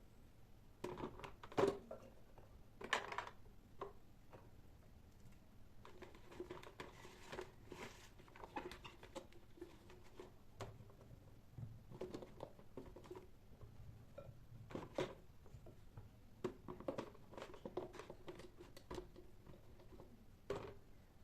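Light clicks, taps and knocks of hand work in a small kitchen, coming irregularly with short gaps.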